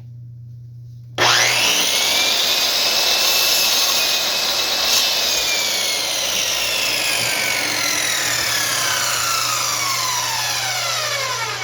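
Electric chop saw switched on about a second in, its motor whining up to speed and the blade cutting through a scrap of wood. Near the end the trigger is released and the whine falls away as the blade spins down.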